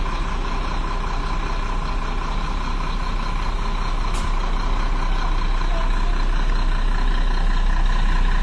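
Shacman 6x4 tipper truck's diesel engine running steadily, growing slightly louder in the second half.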